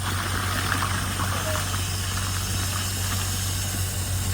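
Hydro jetter running steadily while it jets a greasy kitchen drain line: a constant engine hum with a hiss of water.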